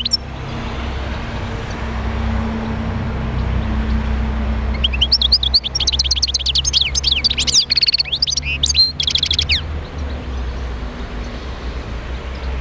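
European goldfinch singing: a rapid, tinkling run of twittering high notes that starts about five seconds in and breaks off after about five seconds. A steady low hum runs underneath.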